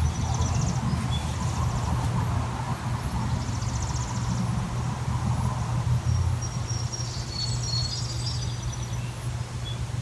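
Small birds chirping, with a few quick high trills and short notes scattered through, over a steady low rumble.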